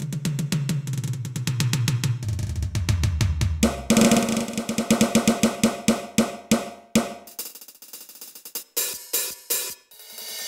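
Roland TD-8 electronic drum module's kit sounds played in fast rolls. A low tom roll steps down to a lower tom about two seconds in. A quicker, higher-pitched drum roll follows from about four to seven seconds, then a few scattered hits, and a cymbal rings out near the end.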